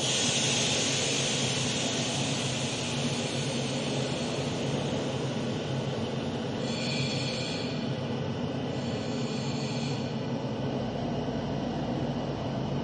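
A train rolling by with a steady rumble, and a brief high wheel squeal about seven seconds in.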